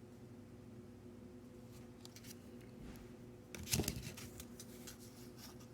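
Faint handling sounds of silver coins and their packaging: soft rustles and light clicks, with a short cluster of clicks about three and a half seconds in, over a steady faint hum.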